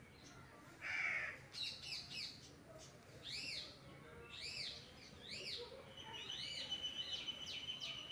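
Birds calling: a series of clear high notes that rise and fall, about one a second, then a faster run of notes over a steady high whistle near the end. A short harsh noise about a second in is the loudest sound.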